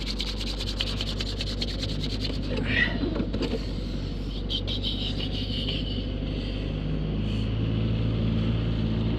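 Truck engine running steadily, getting a little louder about seven seconds in, with a rapid ticking over the first two seconds.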